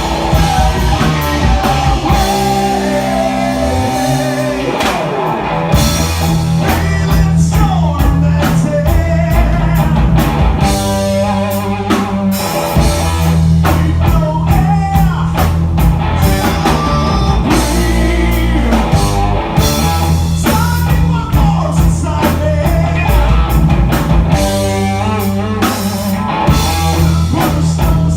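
A rock band playing live: guitars, bass and drum kit, with singing.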